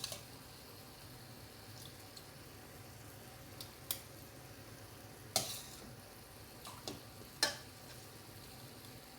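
Chicken breast frying in a pan with a low, steady sizzle, and a few sharp knocks of a utensil against the pan.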